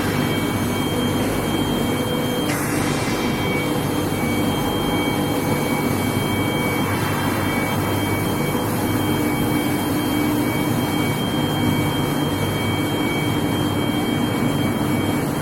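Long-bar induction hardening and tempering line running: a steady loud drone and hiss with a steady high-pitched whine. A brief surge of hiss comes about two and a half seconds in and again near the end.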